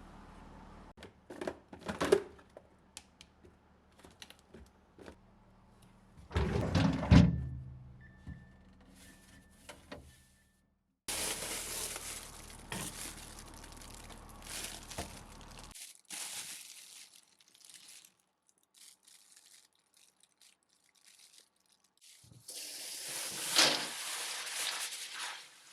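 Household handling sounds: scattered knocks and clicks of objects being picked up and set down, one louder thud about seven seconds in, and stretches of rustling.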